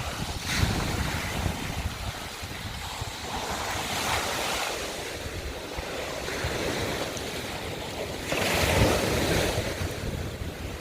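Sea waves breaking and washing over a shore of broken scallop shells, in repeated surges with the strongest about eight seconds in. Wind buffets the microphone with a low rumble throughout.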